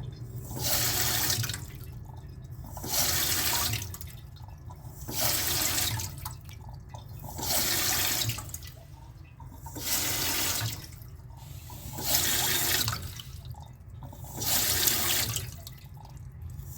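Water rushing through a toilet tank's fill valve, surging about every two seconds, over a steady low hum.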